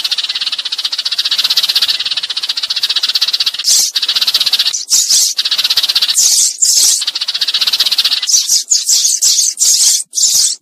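Sparrows chattering in a rapid, dense run of high calls that breaks into shorter bursts from about four seconds in: sparrow flock-calling of the kind used as a lure to call a flock to a trap.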